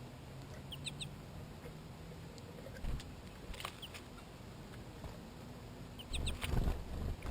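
A small animal giving short, high chirps in quick pairs, a few times, with some low thumps and bumps about three seconds in and near the end.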